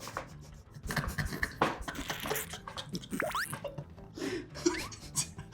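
Close-miked eating sounds: irregular bites, crunches and wet chewing noises, with a short rising squeak about three seconds in.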